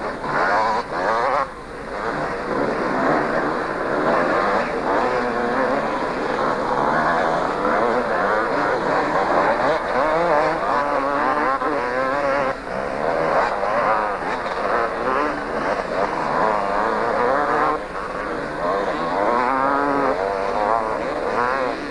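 A field of 250 cc two-stroke motocross bikes racing, many engines revving at once and their pitches rising and falling over each other.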